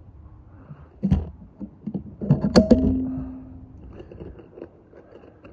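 A custom PCP air rifle firing one shot about two and a half seconds in: a sharp crack followed by a short ringing tone that fades within about a second. A lighter knock comes about a second in.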